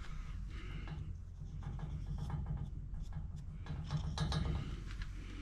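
Metal pipe union being fitted and threaded together by hand: light scraping and irregular small clicks of metal on metal, over a low steady hum.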